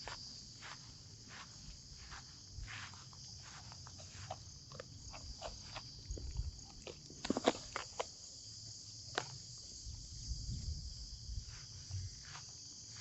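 Steady high-pitched chorus of insects in a forest on a rainy day, with irregular sharp ticks and taps scattered through it; the loudest cluster comes about seven seconds in.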